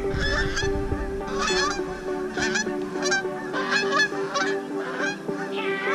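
A flock of Canada geese honking: about ten short calls come in quick succession and sometimes overlap.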